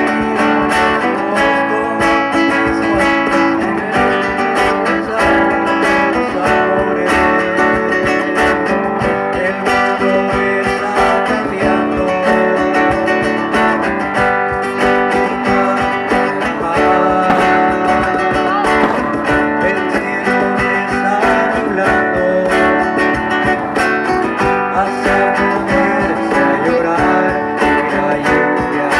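Instrumental guitar music: a stringed guitar playing a continuous run of plucked and strummed notes at a steady level.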